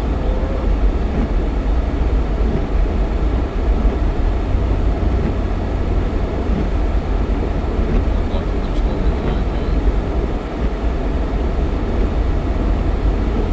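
Jeep Cherokee XJ driving at a steady speed: a constant low rumble of engine and road noise.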